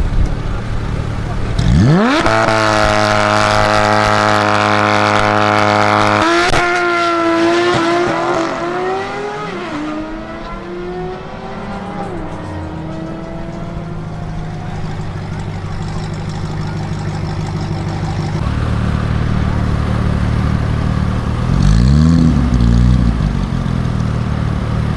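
Performance car engine idling, then revved sharply and held at high rpm for about four seconds. The revs fall away unevenly back to idle, with one short rev blip near the end.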